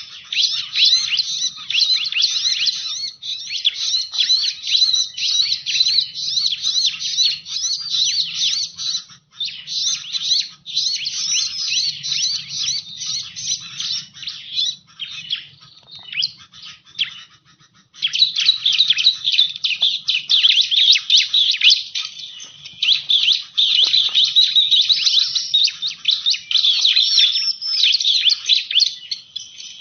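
Bar-winged prinia (ciblek) lure call: a rapid, continuous string of high chirps that breaks off for about a second just past halfway, then resumes.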